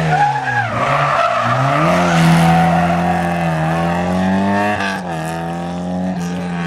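Historic rally car engine at high revs on a stage. The revs dip and recover twice in the first second and a half, climb steadily, then drop sharply at a gear change about five seconds in.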